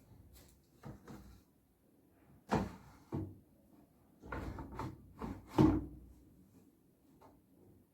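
A series of irregular knocks and clunks from hard objects being handled, the loudest about two and a half and five and a half seconds in.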